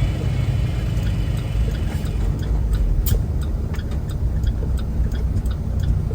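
Semi-truck cab interior while driving: a steady low engine and road rumble, with a light, regular ticking starting about halfway through.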